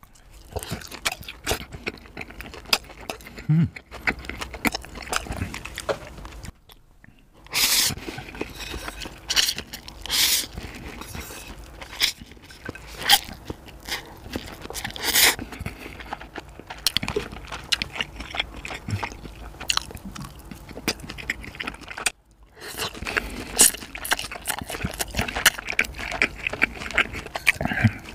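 Close-miked eating: big bites and wet, smacking chewing, then slurping and chewing mouthfuls of spicy black-sauce instant noodles. There are many sharp crunches and smacks, broken by a brief silent gap about seven seconds in and another near 22 seconds.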